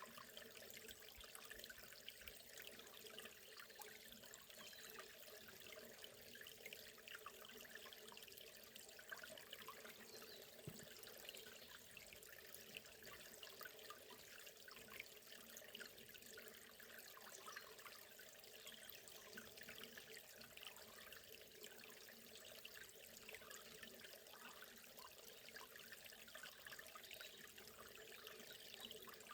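Faint, steady sound of a forest river running: an even rush of water with a fine trickling, babbling texture that does not change.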